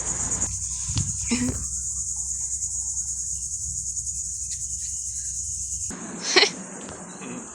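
Cicadas buzzing in a steady, continuous high-pitched drone over a low rumble. About six seconds in, a short loud call cuts across the buzz.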